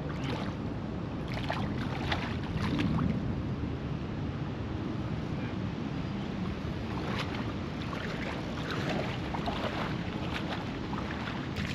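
Steady low wind rumble on the microphone over open water at a kayak, with scattered brief higher noises.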